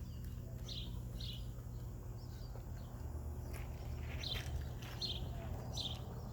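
Birds chirping: several short high-pitched chirps at irregular intervals, over a steady low background rumble.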